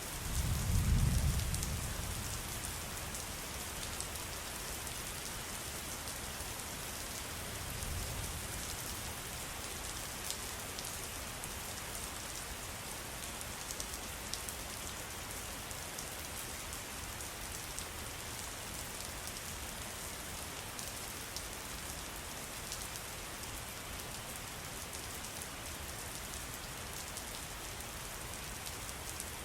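Water trickling and pattering steadily, with many small drip sounds. There is a low rumble about a second in and a fainter one around eight seconds.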